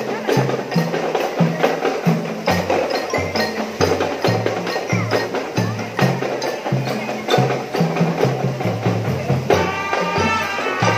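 Marching drum band playing: a repeating pattern of tuned low drum beats with sharp snare and cymbal strokes over it. Near the end a melodic instrument comes in with held notes.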